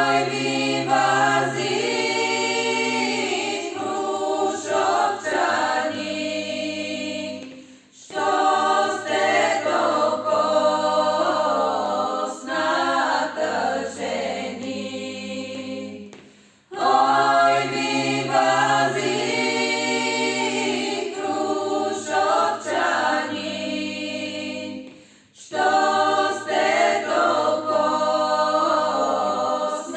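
A group of voices singing together without instruments, in long phrases about eight seconds each, with a short breath between phrases.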